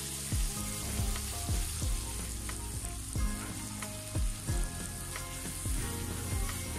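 Onion-tomato masala sizzling in a non-stick wok as it is stirred with a spatula, a little water just added to help fry it down (kosha). Low thuds and notes of background music make the loudest moments.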